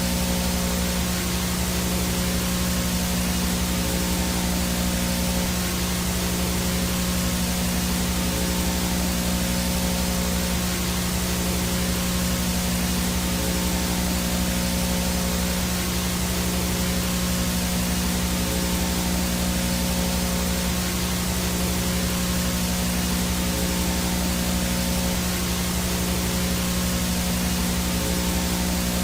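VHS static noise from a tape or channel with no signal: a steady, even hiss with a constant low electrical hum and a thin high whine under it, unchanging throughout.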